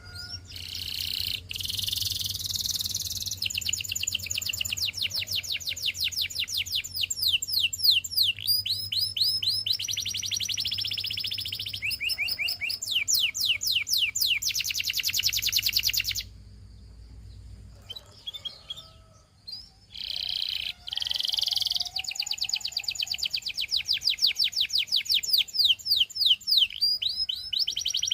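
Domestic canary singing long phrases of fast repeated notes and rolling trills. The song breaks off about 16 seconds in and starts again about 20 seconds in.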